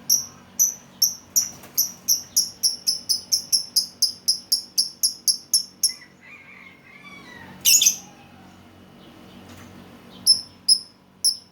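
Lovebird calling: a run of short, high chirps that speeds up over the first six seconds, then a brief lower twitter and one loud, harsh call about eight seconds in, with the chirps starting again near the end.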